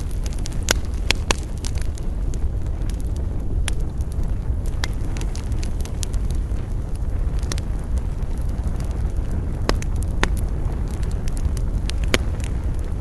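Wood campfire burning: a steady low rush of flames with sharp, irregular crackles and pops of the burning wood, several in the first second and a half, then every few seconds.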